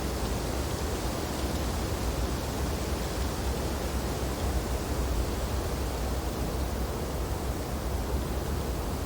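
Wind blowing steadily through snowy tree branches: a continuous rushing hiss over a deep low rumble, with no distinct gusts or breaks.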